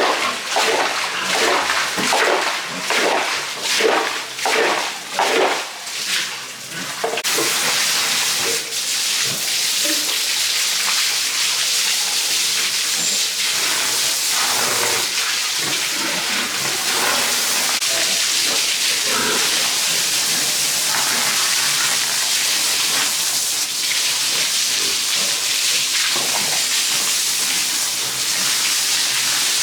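Rhythmic strokes about twice a second for the first quarter, then a steady hiss of running or spraying water.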